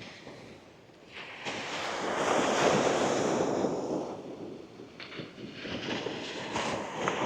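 Small sea waves breaking and washing up a sandy beach. One surge builds about a second in and ebbs past the middle, and another rises near the end.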